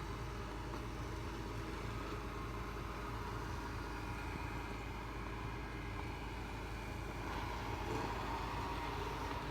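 Robot vacuum with mop running steadily over the floor, a constant motor hum with a faint whine; a further steady tone comes in about seven seconds in.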